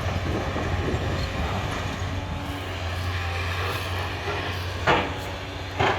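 Steady low drone of a large demolition excavator's diesel engine working, with two sharp knocks near the end.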